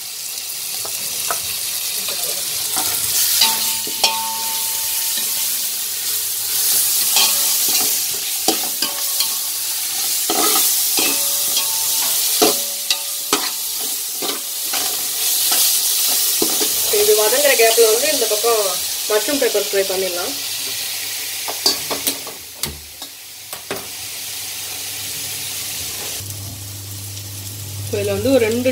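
Onions, green chillies and spices sizzling as they fry in ghee in a large aluminium pot, while a perforated metal ladle stirs them and clicks and scrapes against the pot. The sizzling dies down near the end.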